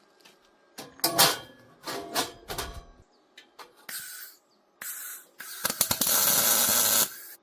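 Metal tool work on a steel frame: a run of clicks and knocks, then a few short bursts, then a tool running steadily for about a second and a half before it cuts off near the end.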